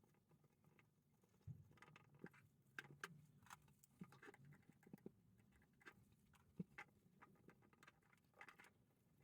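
Near silence with faint, scattered small clicks and light taps of small parts being handled, more frequent from about a second and a half in.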